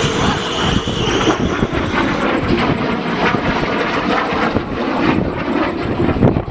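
A MiG-17 jet fighter's turbojet engine, loud and continuous; a high whine fades out about a second in and the upper part of the noise thins toward the end as the jet moves away.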